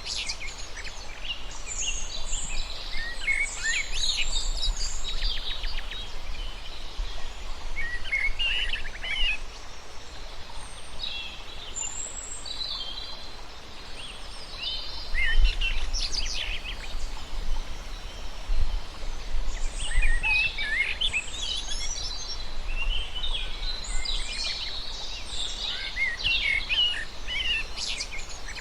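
Several birds chirping and singing in overlapping bursts of short high notes and trills, busiest near the start and in the last third, over a steady low background noise.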